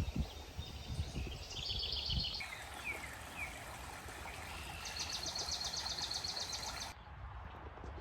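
Songbirds singing outdoors: a rapid high trill of quickly repeated notes twice, with a few short down-slurred chirps between. Low rumbling thumps on the microphone in the first two seconds.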